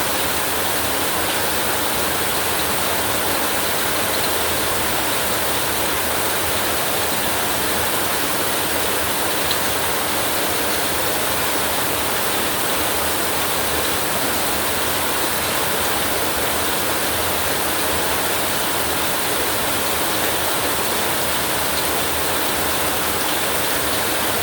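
Steady heavy rain: a dense, even hiss that does not change, with no thunder cracks.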